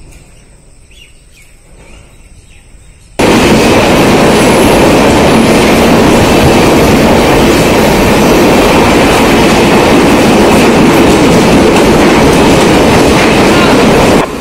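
Mumbai suburban electric local train running along the track, a loud steady rumble and rattle of the carriage and wheels. The noise comes in suddenly about three seconds in, after a faint stretch, and drops away sharply just before the end.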